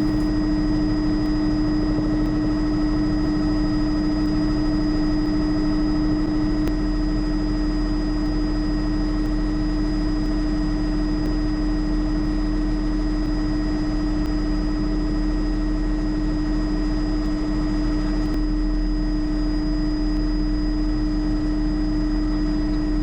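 Bell 206 JetRanger helicopter in cruising flight: the turbine engine and rotor system give a steady drone with a constant whine, unchanging throughout.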